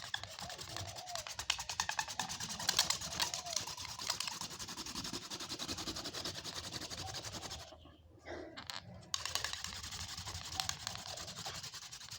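Wooden hand-drill spindle spun between the palms against a wooden hearth board: rapid friction rubbing with occasional short squeaks. It stops briefly about eight seconds in, then resumes.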